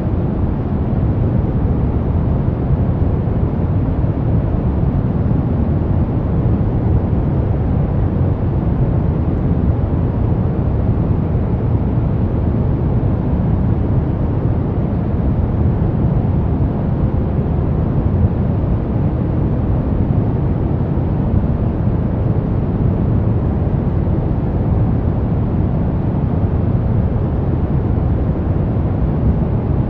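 Brown noise: a steady, deep rumbling hiss, strongest in the low end and falling off toward the highs, unchanging throughout.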